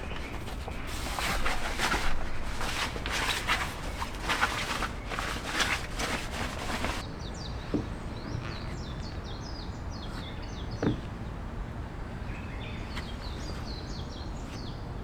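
Irregular rustling and crunching noises for the first half, which stop abruptly about seven seconds in. Small birds then chirp repeatedly over a steady outdoor background, with a few soft knocks.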